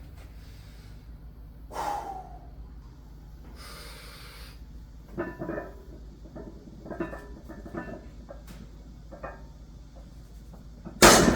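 A lifter breathing hard and bracing through a heavy deadlift: a sharp inhale, then a series of short grunts and strained exhales. Near the end comes one loud bang, the loaded barbell set back down onto the rack pins.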